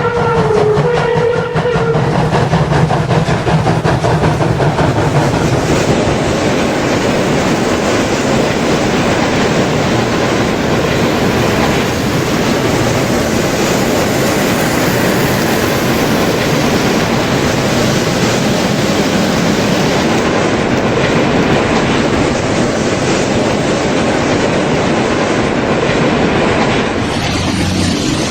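Märklin model steam train with a long rake of coke wagons rolling over the layout's track, a steady dense clatter of wheels and wagons. A short whistle-like tone sounds at the start.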